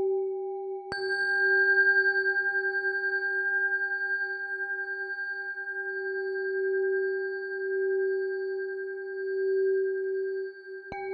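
Tibetan singing bowl tuned to G, ringing with a steady, wavering hum. It is struck about a second in, adding bright higher overtones, and struck again near the end.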